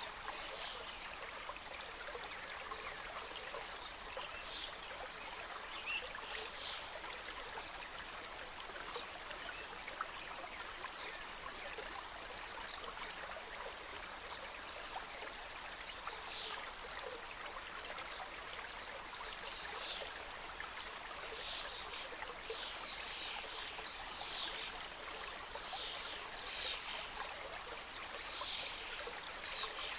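A mountain stream running steadily over rocks, an even rushing and trickling of water. Short high-pitched plinks come through it, more often in the second half.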